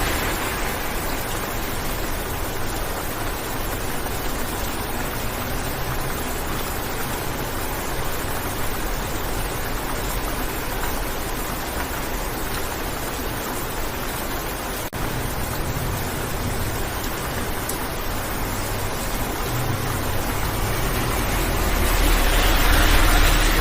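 Steady rain on a car windshield heard from inside the cabin, over a low engine hum. The wash swells louder near the end, and drops out for a moment about halfway through.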